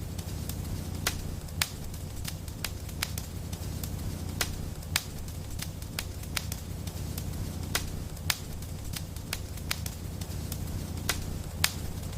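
Wood fire crackling in a fireplace: irregular sharp pops and snaps, a few a second, over a steady low rumble of the burning.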